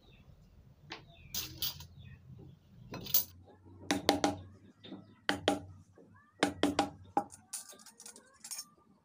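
Carving chisel being struck with a mallet into wood: sharp knocks in quick clusters of two or three, repeated about every second.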